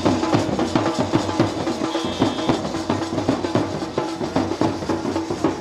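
Loud live music dominated by fast, driving drum beats, with a steady held note underneath.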